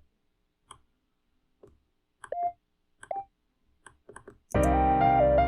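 Mouse clicks in a DAW piano roll, two of them sounding short synth preview notes. About four and a half seconds in, playback starts: a synth lead melody over keys and bass.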